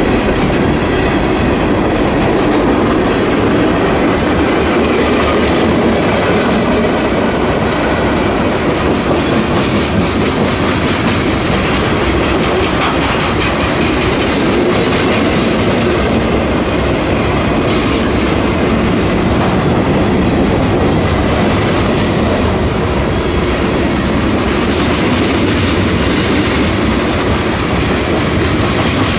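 Norfolk Southern freight train's cars rolling past close by, steel wheels running on the rails, loud and steady.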